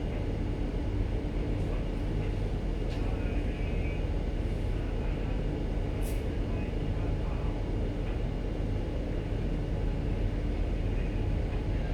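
Steady low rumble of a ship's machinery running during berthing, with a couple of faint clicks.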